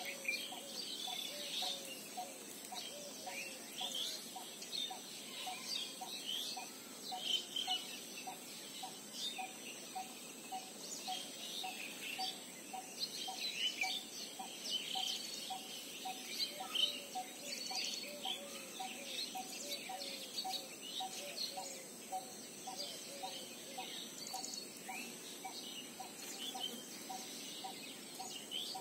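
Outdoor birdsong: several birds chirping and calling in quick high notes, over a low call repeated about twice a second throughout.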